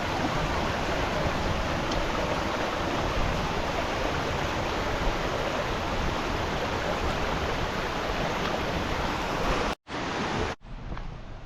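Waterfall: a steady rush of falling water that cuts off suddenly near the end, leaving quieter, duller sound.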